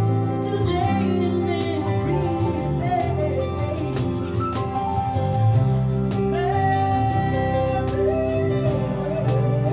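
Live acoustic pop band playing a love ballad: a sung melody over keyboard chords, bass guitar and guitar, with a steady beat of cajón hits.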